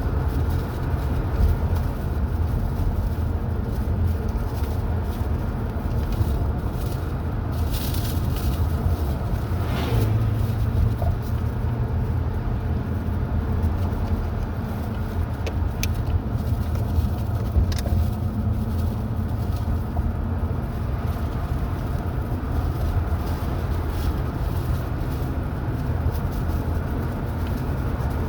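Car driving along a road: steady low rumble of engine and tyres, with a few brief clicks.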